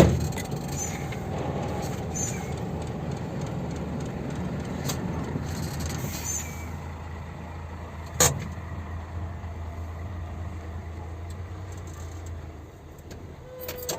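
Heavy dump truck's diesel engine running with a steady low drone that fades out near the end. There is a sharp knock at the start and a short, loud, sudden sound about eight seconds in.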